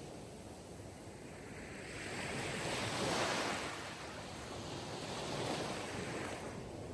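Sea surf: waves washing in, swelling to a peak about three seconds in and again more softly near the end.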